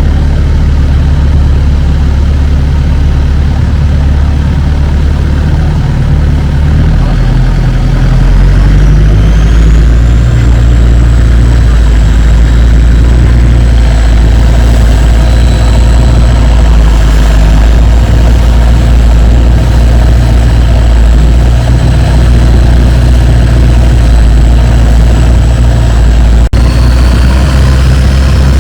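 Longtail boat's engine running loud under way. About a third of the way in it speeds up: the rumble shifts and a high whine climbs, then holds steady. There is a brief break near the end.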